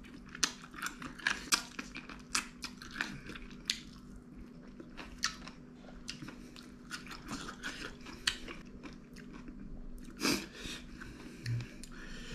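A person chewing and biting on spicy chicken feet close to the microphone, with many short, irregular clicks from the mouth and a louder one about ten seconds in.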